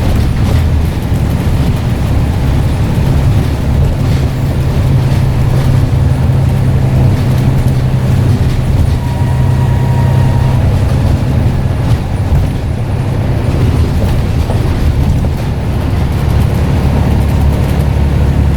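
Scania N94UD double-decker bus engine running under way: a loud, steady low drone, with brief dips in level about a second in, about twelve seconds in and near the three-quarter mark.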